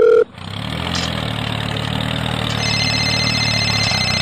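A dial tone cuts off just after the start, then a mobile phone on the other end of the call rings with a steady buzzing vibration, a thin high ringing tone joining partway through.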